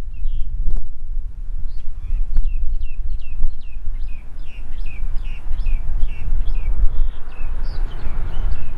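Wind buffeting the microphone with a steady low rumble, while a bird calls a quick series of short, downward-sweeping chirps, about two or three a second. Near the end a rushing noise starts to build.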